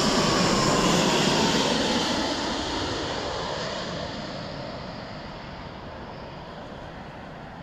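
Jet airliner coming in to land and passing the listener. The engine noise is loudest about a second in, with a faint falling whine, then fades steadily as the plane moves away.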